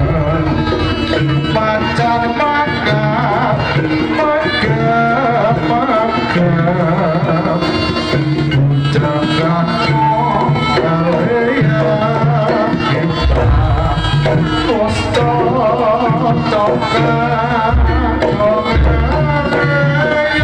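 Javanese jaranan music: kendang hand drums beat out a steady rhythm under a gamelan ensemble, with a wavering melody line on top.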